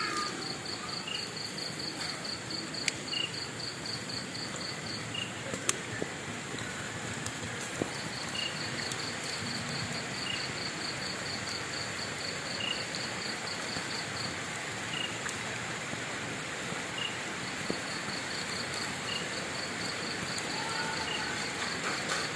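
Crickets chirping in an even pulsing rhythm of about four chirps a second. The chirping pauses twice and resumes, and a second, lower chirp comes singly every second or two. Behind them is a steady hiss with a few sharp pops, as of a crackling wood fire.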